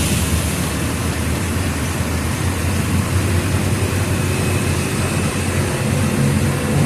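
Mercedes-Benz OF 1722M bus diesel engine running at a steady low rumble, then starting to rev up near the end.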